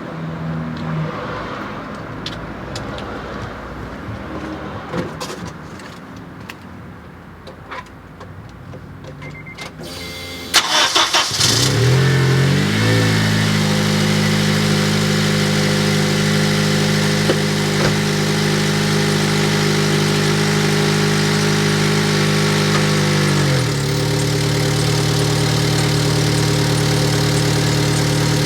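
A 2003 Honda Element's 2.4-litre four-cylinder engine being cranked and catching about ten seconds in, after a few faint clicks. It rises to a fast idle, holds steady, then drops to a lower steady idle near the end; the engine has an exhaust leak.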